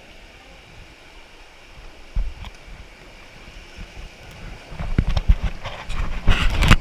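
River water rushing around a raft, with wind buffeting the microphone in a low rumble that grows much louder and choppier near the end.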